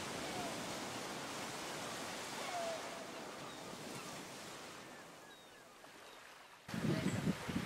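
Steady wash of waterside surf noise with faint short bird chirps, slowly fading; near the end it switches abruptly to gusty wind buffeting the microphone.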